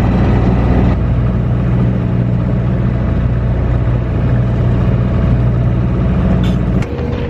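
Sailing yacht's inboard engine running steadily under way while motoring, a constant low hum. The sound drops and changes abruptly near the end.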